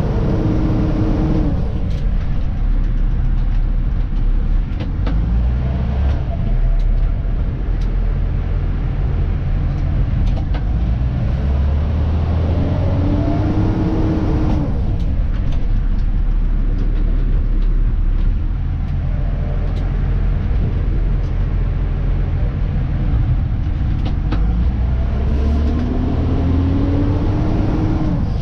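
Diesel engine of a Dennis Elite 2 refuse truck, heard from inside the cab as a steady low rumble. Its pitch rises and then drops off three times, about twelve seconds apart, with light rattles and clicks in between.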